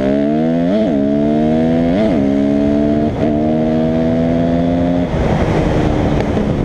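Dirt bike engine accelerating hard and shifting up through the gears: the revs climb and drop back at each change, near the start and at about one, two and three seconds in. About five seconds in it eases off, and the engine tone sinks under a rough rushing noise of wind and ground.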